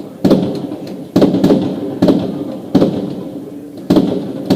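Fireworks bursting overhead: six loud bangs in a row, roughly one a second, each followed by a fading echo.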